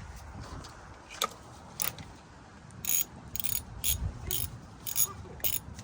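Hand socket ratchet being worked back and forth on a bolt, about eight short bursts of ratchet clicking, coming faster, about two a second, in the second half.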